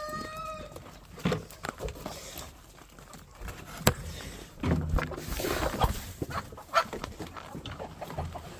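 Chickens in their pens: a rooster's crow trails off about half a second in, then scattered knocks, clatter and rustling from the birds and the cages, with one sharp click near the middle.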